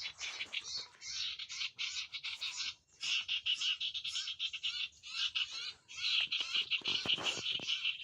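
An iora (Malay 'burung kunyit') singing a rapid, continuous chattering song, broken by brief pauses about three seconds and about six seconds in.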